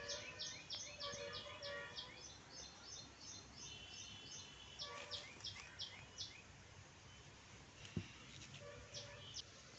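Small birds singing: runs of quick, high, down-slurred chirps, about four or five a second, that stop and start, with short lower held notes mixed in. A single soft knock about eight seconds in.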